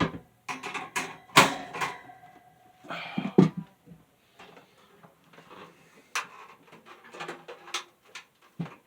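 Irregular knocks, clicks and clatter of hard objects being handled, moved and set down, with a brief ringing tone about a second and a half in and a couple of heavier thuds around three seconds in.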